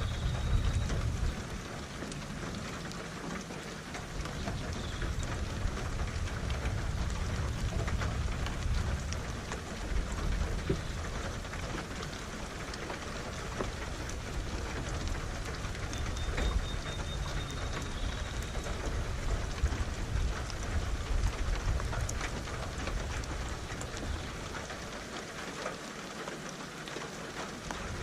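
Steady heavy rain with many close drops, under a low rolling thunder rumble that eases off briefly a few seconds in and again near the end.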